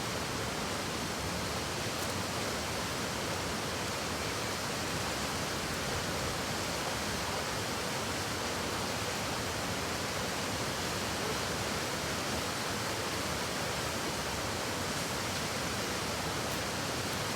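A river rushing steadily, an even unbroken hiss of fast-flowing water.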